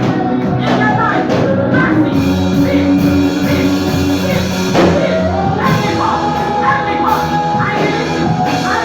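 Church worship music: singers with instrumental accompaniment, voices holding long sustained notes over a steady band.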